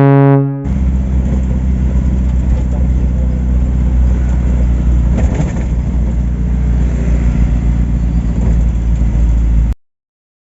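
Heavy truck's diesel engine running steadily with a low rumble, cutting off abruptly near the end.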